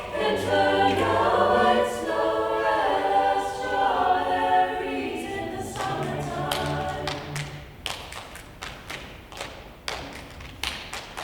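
High school choir singing a cappella in several parts. About two-thirds of the way through the voices die away, leaving a string of sharp claps and thumps.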